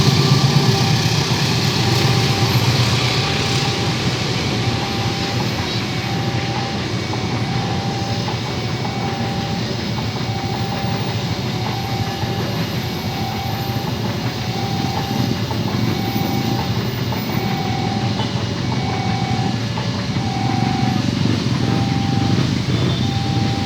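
Train passing a railway level crossing with a steady rumble, while the crossing's electronic warning siren sounds an evenly repeating tone throughout.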